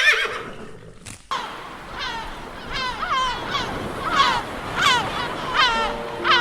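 The end of a horse's whinny, then, after an abrupt change, an animal giving a series of short, falling calls, roughly two a second.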